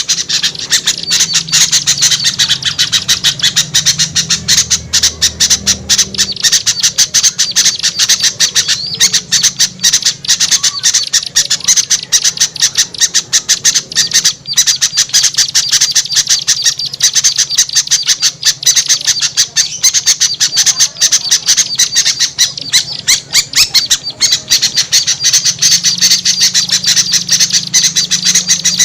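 Bird-lure recording of small songbirds' noisy, agitated chatter: a dense, unbroken stream of rapid harsh calls from many birds at once, used to draw wary small birds down.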